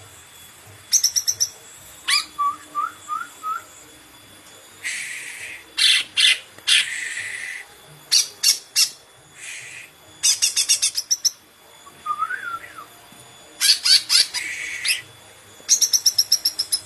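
Cucak ijo (green leafbird) singing in bursts of rapid, repeated sharp notes and buzzy phrases, with a few short rising whistles, broken by brief pauses.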